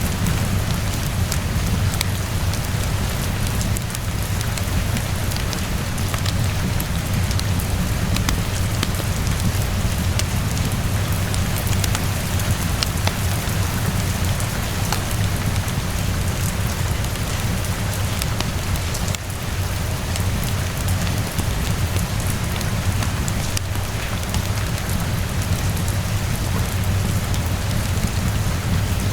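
Steady rainfall with a low rumble beneath it, and scattered small sharp crackles of a wood fire mixed in.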